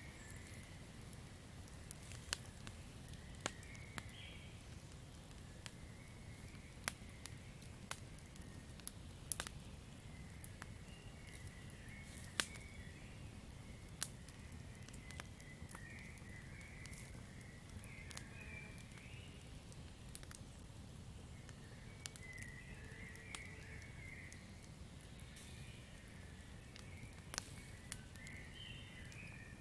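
Campfire crackling: sharp wood pops at irregular intervals over a low, steady hiss. Short chirping calls come and go in the background, in clusters, most of all in the second half.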